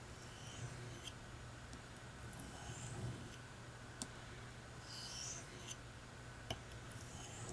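Knife blade stroked lightly along a hard Arkansas oilstone to polish the edge: faint, soft scraping strokes about every two seconds, with a few sharp clicks in between.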